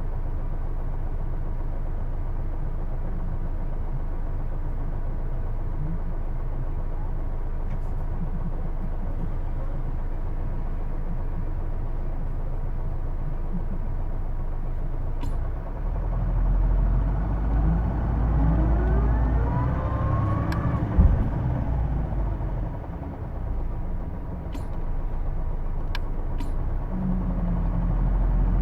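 Hino Blue Ribbon II city bus (PJ-KV234L1) heard from inside: the diesel engine runs steadily for about fifteen seconds, then the bus pulls away with the engine note and a whine climbing in pitch. This is the distinctive drivetrain whine the uploader thinks comes from the transmission and likens to an automatic gearbox. A single thump comes about two-thirds in, the sound eases briefly, then builds again near the end.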